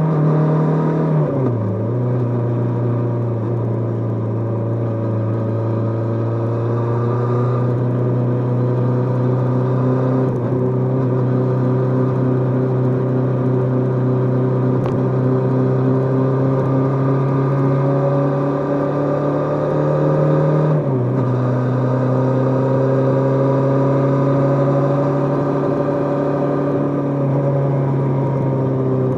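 Kawasaki GPZ550's air-cooled inline-four engine under way, its pitch climbing slowly as the bike gathers speed. The pitch drops suddenly about a second in and again about 21 seconds in, each drop a gear change, then it climbs again.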